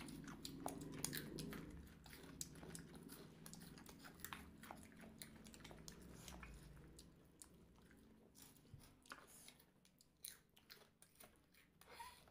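A person chewing crunchy snack food close to the microphone: many small crisp crunches, growing quieter and sparser in the second half.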